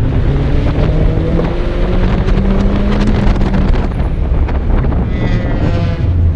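Mini convertible's four-cylinder engine pulling hard under full throttle, its pitch rising steadily, then the throttle closes about three and a half seconds in as the car slows. Heavy wind buffets the open cockpit throughout, and a brief high wavering whine comes near the end.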